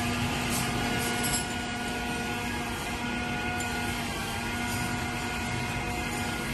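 CNC spanner polishing machine running, a steady mechanical hum with several constant tones under an even whirring noise.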